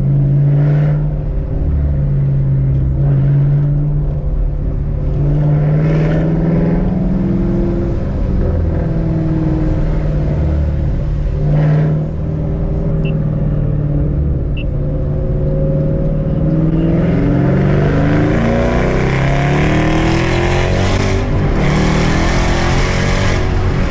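Shelby GT500's supercharged V8 running as the car is driven, its pitch stepping and gliding with throttle and gear changes. In the last several seconds it pulls harder, with pitch climbing and a growing rush of wind and road noise.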